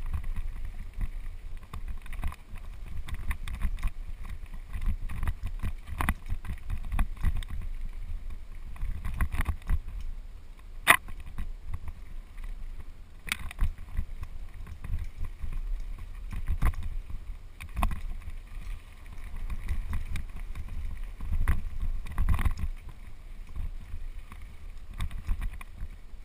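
Mountain bike rolling down a dirt trail: a steady low wind rumble on the microphone, with frequent rattles and knocks from the bike over the bumps, the sharpest about eleven seconds in.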